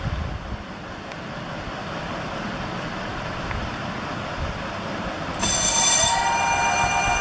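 Wind and tyre rumble from an e-bike on the move. About five and a half seconds in, the brushless gearless rear hub motor starts a layered electric whine that rises in pitch as it picks up speed.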